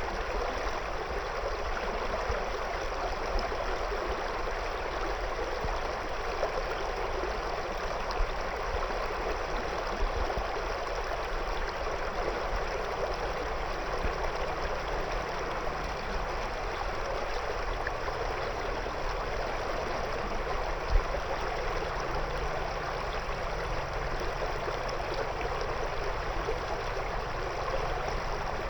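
Shallow river flowing over and around stones: a steady rushing and burbling of water.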